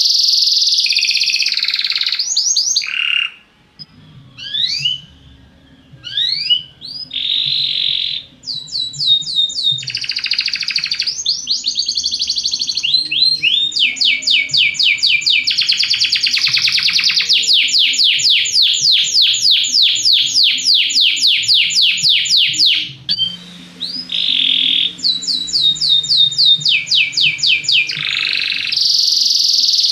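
Belgian canary (domestic canary) singing a continuous, loud song of fast trills. There are quick rising sweeps a few seconds in and a long, even rattling trill through the middle.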